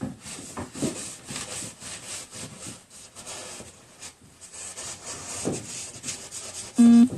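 Quick, irregular scratchy strokes of a drawing tool on paper as a symmetrical beetle is drawn with both hands at once. Near the end a loud low electronic tone sounds twice in quick succession.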